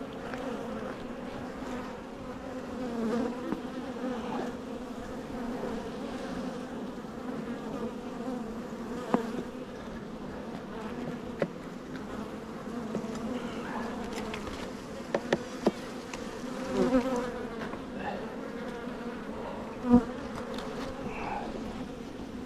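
Honeybee colony buzzing steadily around an open hive, a continuous hum. A few short sharp clicks cut through, several in the middle and the loudest near the end.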